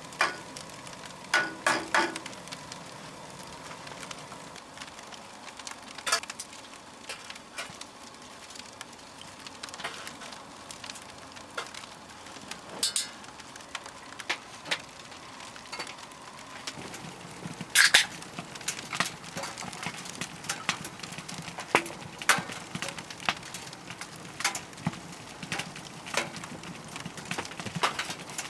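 Wood fire crackling in a camping wood stove: irregular sharp pops and snaps over a steady low hiss.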